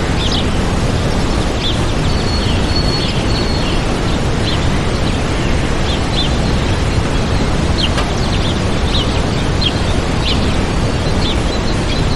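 Waterfall rushing steadily, with small birds chirping over it in short high calls throughout and one held high whistle a couple of seconds in.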